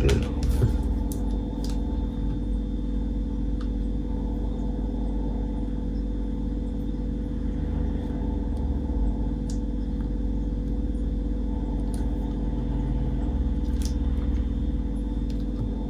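Steady low machine hum with a few fixed tones, with a few faint clicks in the first two seconds and odd light taps later.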